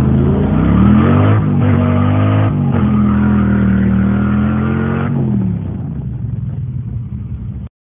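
Ford Windsor small-block V8 under hard acceleration, heard from inside the car: the engine note climbs, drops at two quick upshifts about a second apart, holds steady at high revs, then falls away and quietens as the throttle is lifted near the end.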